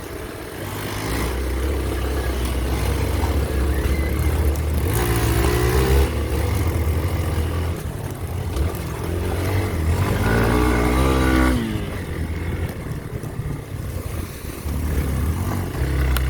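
Trail motorcycle engine running under load, its revs rising and falling as it is ridden, with a higher engine note swelling and dropping away about five seconds in and again around ten to eleven seconds in.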